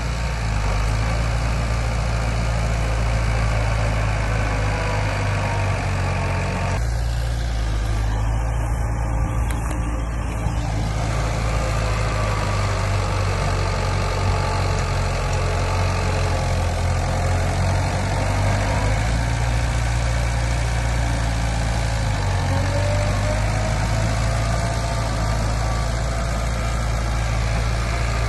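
Diesel engine of heavy earthmoving machinery running steadily, its note shifting slightly about seven seconds in and again a little past twenty seconds.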